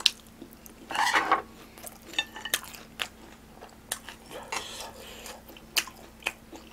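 Close-miked chewing of a piece of crisp fried sweet-and-sour pork, loudest about a second in, with short sharp clicks scattered throughout as a spoon knocks and scrapes in the ramen bowl.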